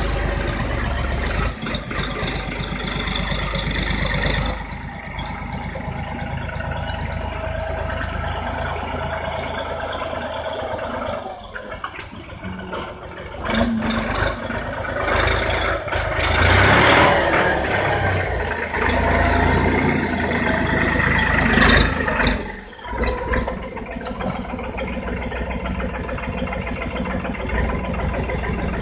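Erkunt 70 tractor's engine running steadily, growing louder and noisier for several seconds in the middle.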